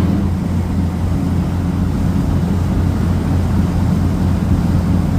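A car ferry's engines running with a steady low drone.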